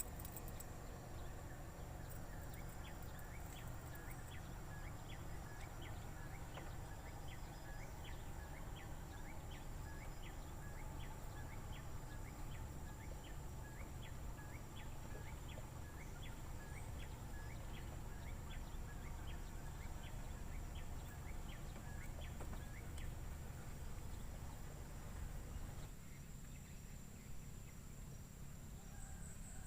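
Outdoor ambience: a steady high-pitched insect drone over a low steady rumble. From about two seconds in, an animal calls in a fast, even series of short chirps, about two a second, which stop a few seconds before the end.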